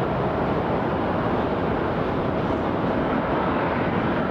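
Steady jet engine noise from an Airbus A350-900 arriving, an even rushing sound with a faint steady hum.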